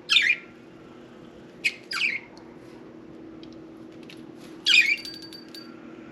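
Budgerigar giving short, harsh squawks and chirps, about four in all with a few faint clicks between, over a steady low hum.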